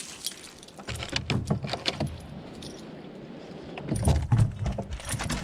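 Dog's collar tags jingling, with repeated knocks and low thumps as the dog climbs aboard a boat.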